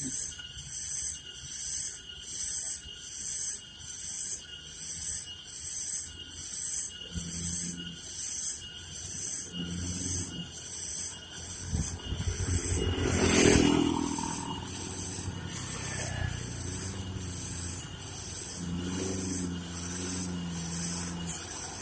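A truck's diesel engine labouring in short low spells, with a loud pass about 13 seconds in and another spell near the end. Behind it runs a steady high-pitched pulsing of about one and a half beats a second.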